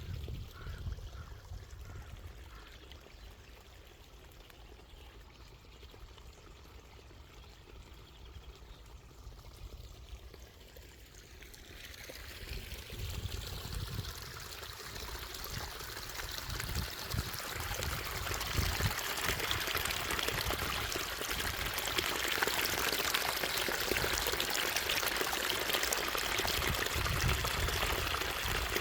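Small flow of water running and pouring, faint at first, then swelling from about twelve seconds in into a steady, louder rush. Low rumbles sound on the microphone now and then.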